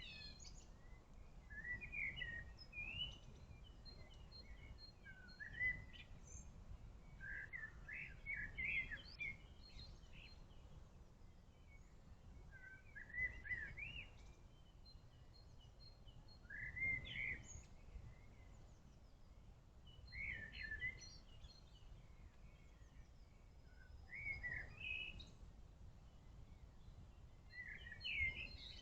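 A songbird singing short warbled phrases, one about every three to four seconds, over a low steady background rumble.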